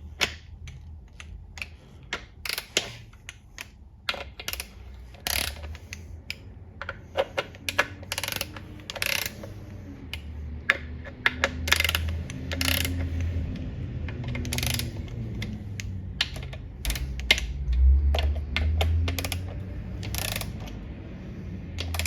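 Hand socket ratchet clicking in short runs as the oil pan bolts of a ZF 8HP70 transmission are run in and nipped up. A low hum sits underneath in the second half.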